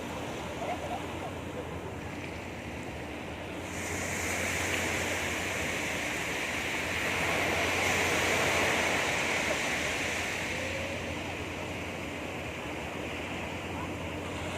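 Sea waves breaking and washing up a beach: the surf swells a few seconds in, is loudest about halfway through, then eases back.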